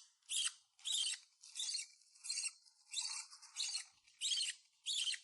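Hand-fed parrot chick making short raspy begging calls in a regular series, a little under two a second, while taking formula.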